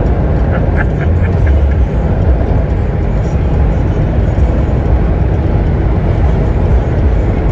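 Steady vehicle rumble, heavy in the low end and without pauses.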